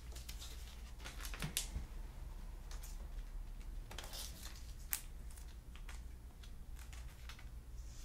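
Basketball trading cards being handled and flipped through at a desk: light rustling and scattered sharp clicks of card edges, the loudest about a second and a half and five seconds in, over a steady low hum.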